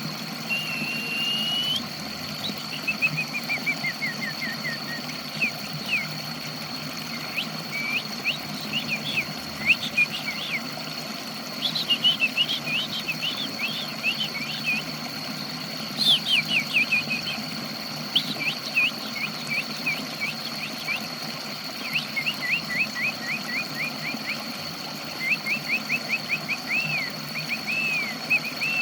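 A small songbird singing in bursts of quick chirps, sweeping whistles and rapid trills. Under it runs a steady low hum and a steady thin high tone.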